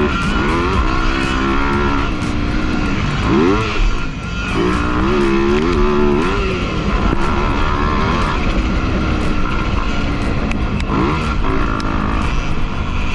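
Motocross bike engine revving up and backing off over and over as it is ridden, its pitch rising sharply several times and then holding, over a steady rushing noise.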